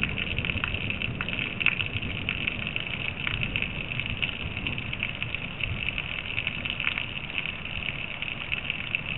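Steady rain falling, with many small crackles from drops, as picked up by an outdoor security camera's microphone.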